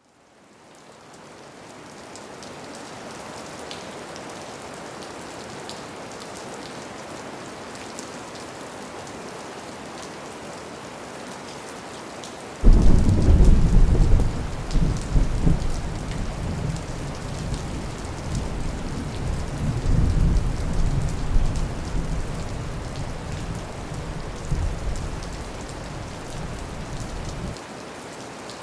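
Steady rainfall fading in over the first couple of seconds. About halfway through a loud, deep thunder rumble breaks in suddenly, rolls on for about fifteen seconds, and stops abruptly near the end while the rain carries on.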